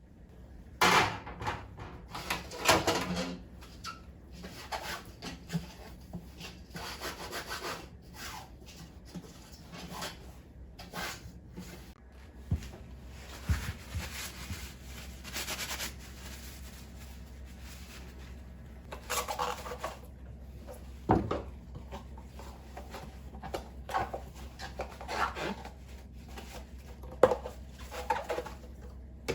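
Cleaning inside a refrigerator: a cloth rubbing and wiping surfaces in irregular strokes, with a few sharp knocks and clatters of things being moved about.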